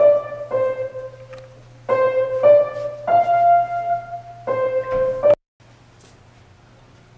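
Keyboard music: a slow line of single held notes that cuts off suddenly a little over five seconds in, leaving faint room tone.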